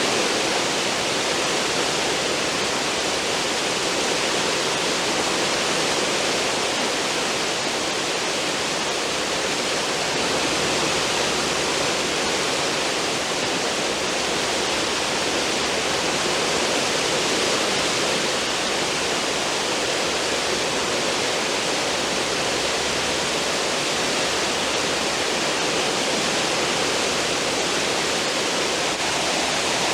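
Cruise ship's stern wake: a steady, even rush of churned water.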